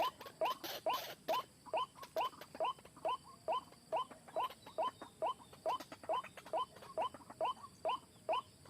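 White-breasted waterhen calling over and over: short rising 'kruak' notes repeated steadily, a little more than two a second.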